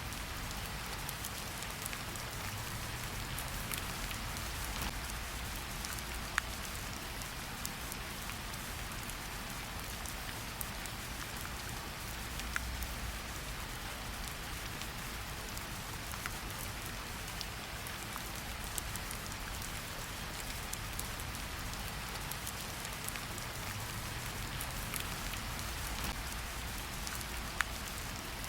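Steady rain falling in a forest, an even hiss of rain with scattered louder individual drops ticking close by.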